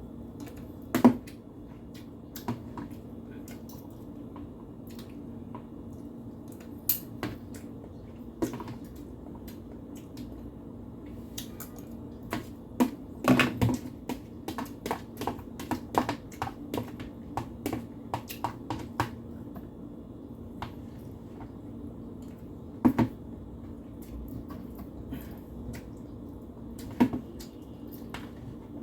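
Irregular light clicks and taps of someone eating from a plate, with a few louder knocks, over a steady low hum.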